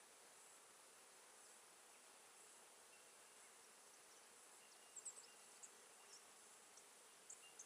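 Faint, steady hum of honeybees working an open hive. A few short, high chirps come in the second half.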